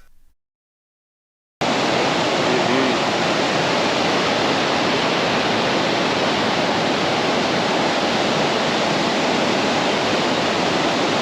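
Total silence for about the first second and a half, then the steady heavy rush of Datanla Waterfalls, with a lot of water pouring through.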